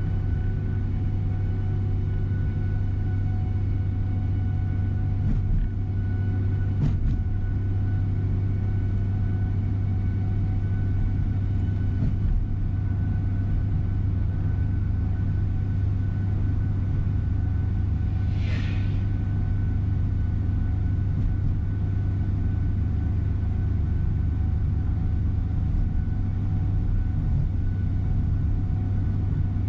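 Tour coach bus driving, heard from inside the cabin: a steady low engine and road rumble, with a few faint knocks and one short hiss about two-thirds of the way through.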